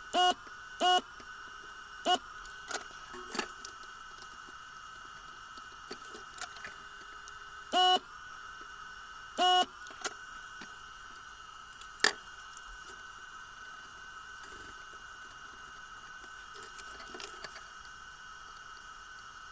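Short electronic beeps, four of them in the first ten seconds, over a steady high whine, with a few light clicks.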